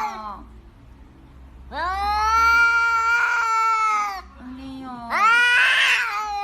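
A cat yowling: two long, drawn-out meows, each rising and then falling in pitch, with a short lower sound between them.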